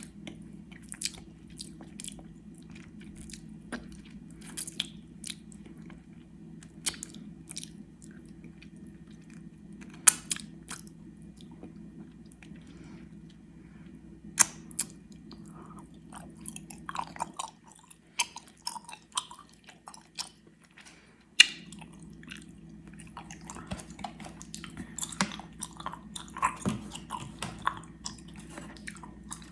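Close-miked chewing of gummy worms: sticky, wet mouth clicks and smacks as the chewy candy is worked, with a few sharper snaps standing out. A steady low hum underneath cuts out for about four seconds midway.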